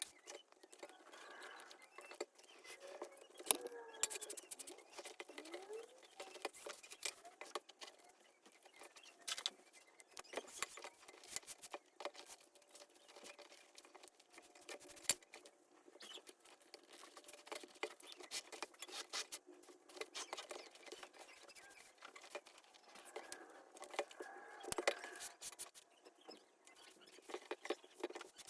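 Hands working a leather baseball glove: a dense run of rapid scratching, rustling and small clicks.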